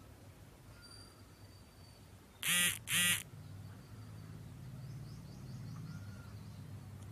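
A bird giving two short harsh calls in quick succession, about two and a half seconds in, over a low steady background hum.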